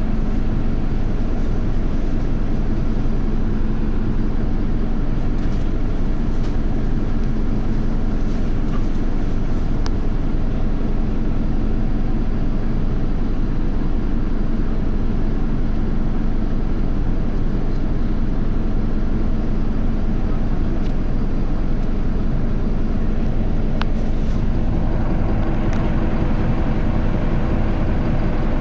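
Isuzu Erga city bus (QDG-LV290N1) running, heard from inside the cabin: a steady four-cylinder diesel engine drone with a few light rattles. About 25 seconds in, the engine sound changes, becoming brighter, with a new steady tone on top.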